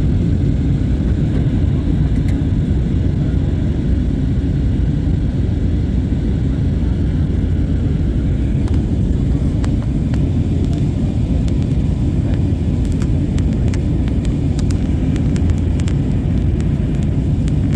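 Airplane noise: a steady, unbroken low rumble, with faint scattered clicks in the second half.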